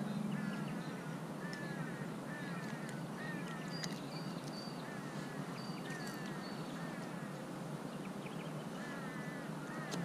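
Birds calling repeatedly from the riverbank: short wavering chirps coming in quick runs, with a few thin higher whistles mixed in, over a steady low background noise.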